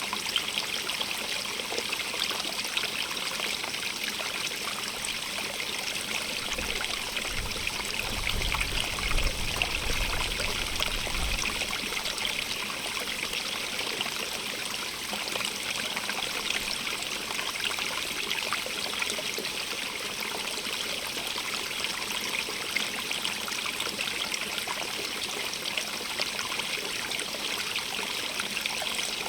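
Running water of a stream, a steady rushing and trickling. A low rumble rises under it about seven seconds in and fades a few seconds later.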